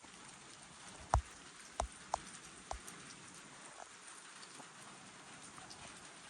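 Steady rain falling, an even hiss, with a few sharp taps between one and three seconds in, the loudest just after one second.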